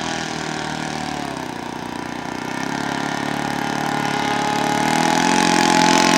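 Radio-controlled model seaplane engine running steadily at high pitch, growing louder over the last few seconds as the plane comes closer.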